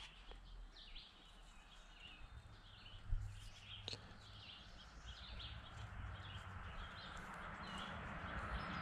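Quiet outdoor ambience with small birds chirping repeatedly, plus a couple of faint clicks about three to four seconds in. A steady rushing noise grows louder over the last few seconds, like an approaching vehicle.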